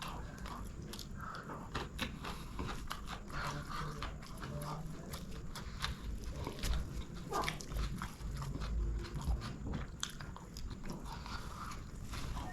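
Close-miked chewing and eating of chicken biryani: irregular wet mouth clicks and smacks with occasional crunches.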